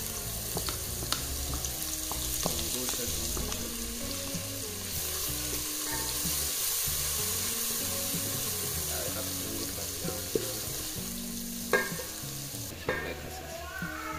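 Onion slices and grated carrot sizzling in hot oil in a metal pot, with a wooden spoon stirring and knocking against the pot. The sizzle grows louder about five seconds in and drops off near the end.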